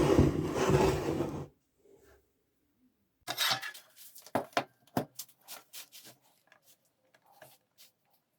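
A power tool running with a steady hum and a rough grinding noise cuts off abruptly about a second and a half in. After a short pause come a scraping burst and a series of sharp clicks and knocks that thin out, as hard parts are handled and set down.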